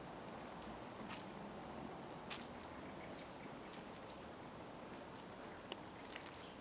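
A small songbird calling over and over: a short high note sliding downward, repeated roughly once a second, over a faint steady outdoor background.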